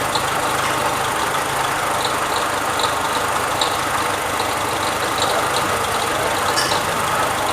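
Renault Sandero engine idling with a whistle and a tinny, can-like noise from the engine, the noise the owner complains of. Light ticks repeat about twice a second.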